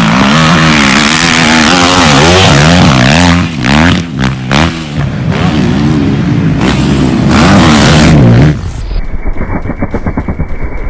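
2006 Honda CRF450R single-cylinder four-stroke dirt bike engine running and being revved up and down over and over, loud. About eight and a half seconds in it cuts to a quieter, rapidly pulsing engine sound.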